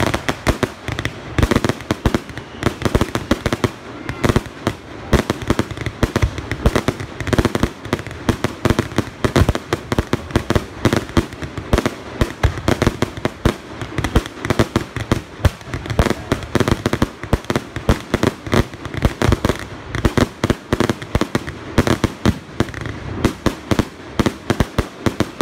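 Fireworks display: a dense, continuous barrage of sharp bangs from bursting shells, several a second.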